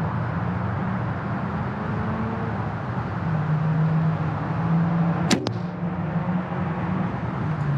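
A PSE compound bow shot: a sharp snap of the release and string about five seconds in, followed a split second later by the arrow striking the target. A steady low hum runs underneath.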